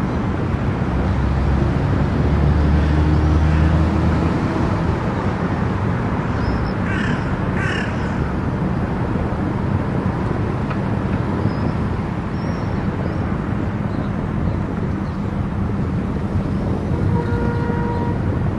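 Steady road and wind noise of a car cruising on an expressway, with two short harsh caw-like calls about seven seconds in.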